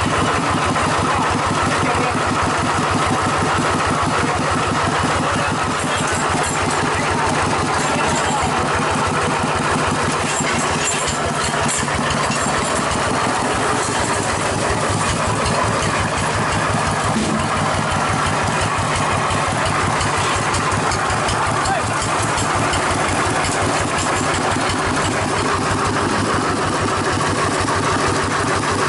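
Single-cylinder diesel engine of a two-wheel rice-field hand tractor running steadily with a rapid, even firing beat.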